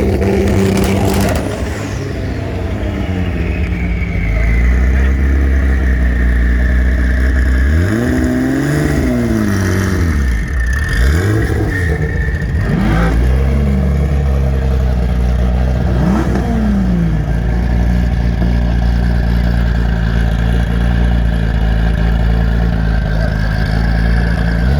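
Car engine idling with a deep steady note, blipped several times so the revs rise and fall back. A high whine falls away just after the opening rev.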